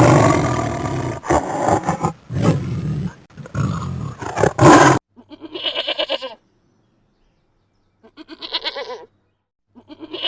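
A big cat roaring and growling, deep and rough, which cuts off abruptly about halfway through. Then a goat bleats in quavering calls: two bleats a couple of seconds apart, and a third starting near the end.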